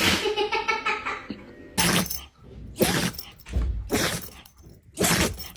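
Dog sneezing: four sharp sneezes in a row, about a second apart, after a brief pitched vocal sound at the start.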